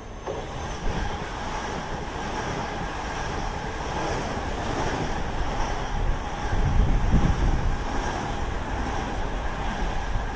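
Long Island Rail Road train passing at speed: a steady rushing rumble of wheels on rail that builds and is heaviest a few seconds before the end.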